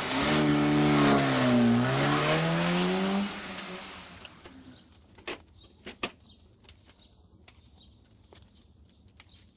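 A car engine revving, its pitch dipping and then climbing over a loud rushing noise, cutting off after about three seconds. Then scattered light clicks and knocks.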